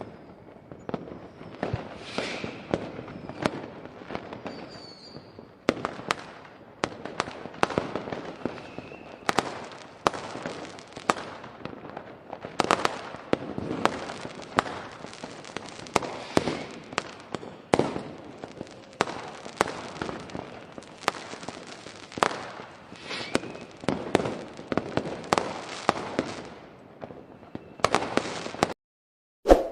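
A truckload of firecrackers going off: a continuous run of irregular sharp bangs and crackling, several a second, which cuts off abruptly near the end.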